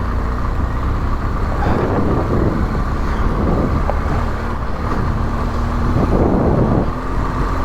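Adventure motorcycle engine running steadily while riding an off-road track, with rough patches of road noise now and then.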